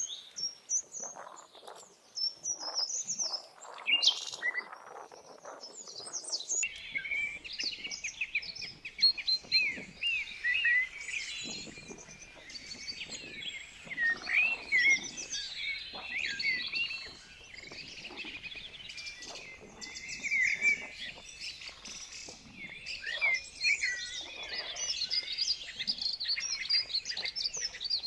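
Birds singing, many quick chirps and warbling calls overlapping in a dense chorus; a few scattered calls at first, thickening into a continuous chorus about six seconds in.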